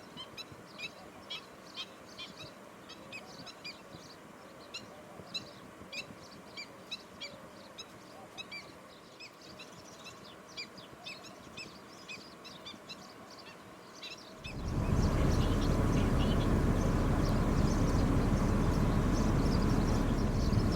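A bird giving short, sharp calls over and over, several a second. About fourteen seconds in, a loud steady rushing noise starts suddenly and covers the rest.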